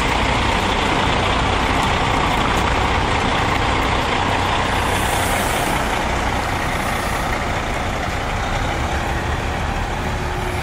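Truck running steadily at the wash bay, with a brief faint hiss about five seconds in.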